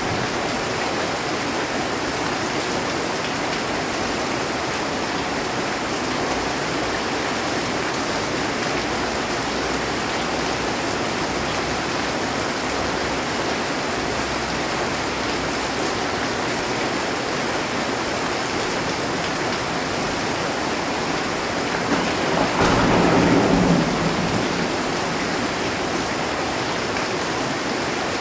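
Heavy rain falling steadily on a metal roof, with one clap of thunder rumbling for about two seconds some three-quarters of the way through.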